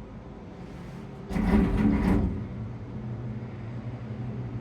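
Aerial tramway cabin in motion with a steady low hum, broken just over a second in by a loud rumbling clatter lasting about a second.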